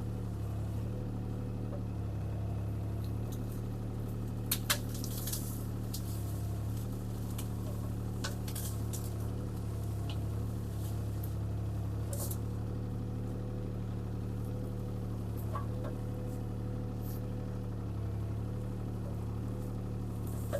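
CAT 303C CR mini excavator's diesel engine running steadily while the machine works a pine stump out of the ground, with a few short sharp knocks and cracks along the way.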